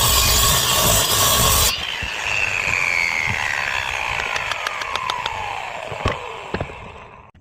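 Angle grinder cutting natural stone, switched off a little under two seconds in, its disc whining down in pitch over about five seconds, with a few light clicks near the end.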